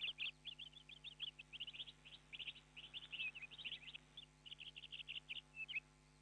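Small birds chirping, a quick busy run of short high chirps that stops shortly before the end, over a faint steady hum.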